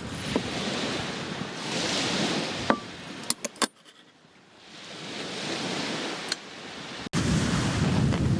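Small waves washing in and drawing back on the shore, swelling and fading twice, with a few sharp clicks near the middle. About seven seconds in it cuts abruptly to a louder low rumble of wind on the microphone.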